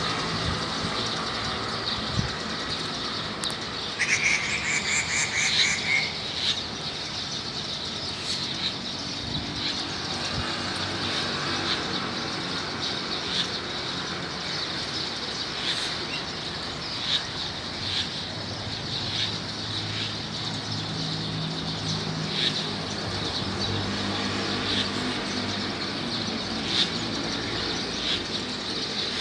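Many wild birds chirping at a feeding spot, short calls overlapping throughout over a steady low hum. About four seconds in, a loud buzzy tone lasts about two seconds.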